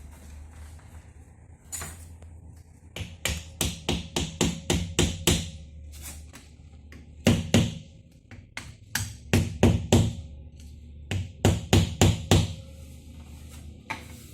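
Hammer striking metal in quick runs of several blows, during work on a GAZelle van's steering gearbox, over a steady low hum.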